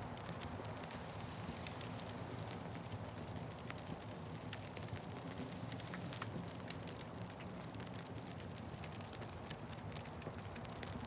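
Wood fire crackling: frequent small sharp pops and snaps at irregular intervals over a steady low rumble of burning.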